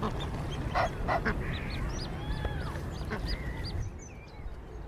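Egyptian geese calling: a few harsh, loud honks about a second in, then a quick run of short, high, arching notes, over a steady low background rumble.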